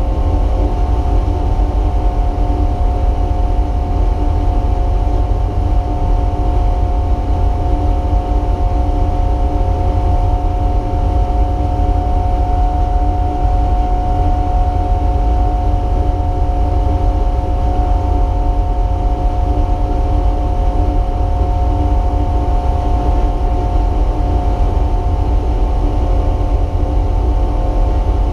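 A race car's engine running steadily, heard from inside the car under a heavy low rumble. Its hum holds one pitch throughout.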